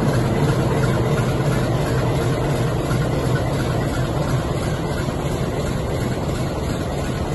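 ALCO diesel locomotive's engine running as it passes, fading slowly while ballast-loaded wagons roll over a steel girder bridge behind it.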